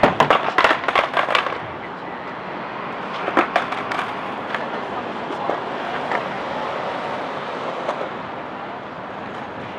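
Skateboard session at a grind box: a quick run of sharp clacks and scrapes in the first second and a half and another around three and a half seconds in, over the steady noise of wheels rolling.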